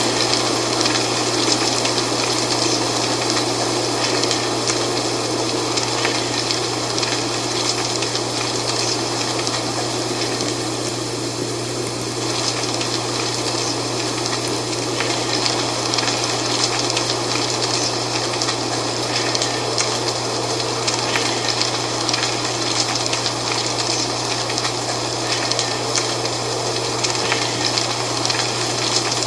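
Dry fall leaves rustling and crackling in a steady wind, with a steady low hum beneath.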